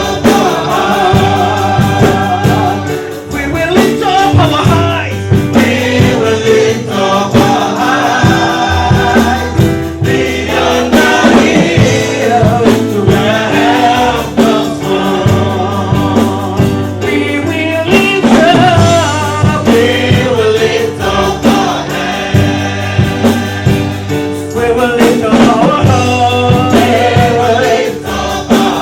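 Live gospel worship music: a choir and congregation singing over a band with bass and percussion.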